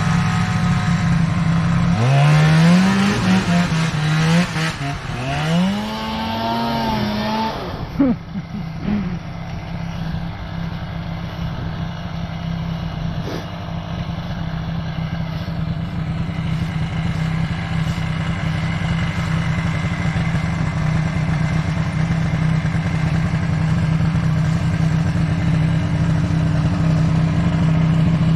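Snowmobile engines: one runs steadily at a low idle throughout. From about two to eight seconds in, another engine revs up and down several times, and it begins to rev up again near the end.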